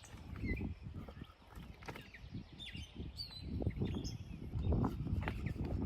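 Faint short bird chirps scattered throughout, over low rumbling and bumping from movement near the microphone.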